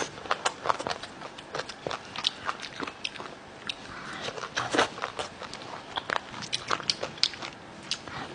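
Close-miked eating: a person biting and chewing crunchy chicken feet in spicy Thai sauce, with many irregular sharp crunches and wet chewing.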